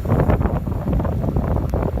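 Wind buffeting the microphone: loud, irregular low rumbling gusts, easing off near the end.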